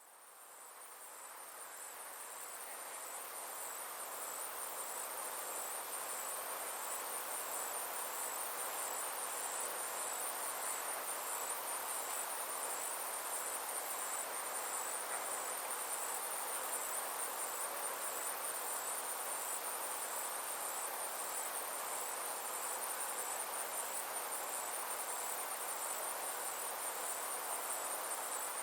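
Summer insects trilling: a steady, high, rapidly pulsing buzz over an even lower hiss, fading in over the first few seconds.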